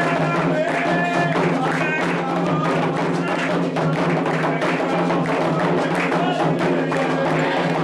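Candomblé atabaque hand drums playing a fast, driving rhythm, with voices singing a chant over them: the drumming and song of the rum for the orixá Oxossi.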